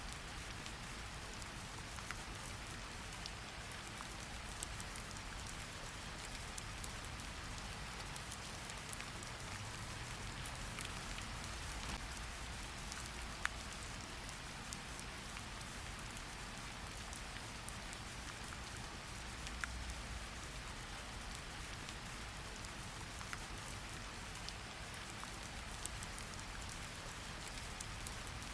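Steady rain falling, a continuous patter with scattered sharper drop ticks, over a low rumble.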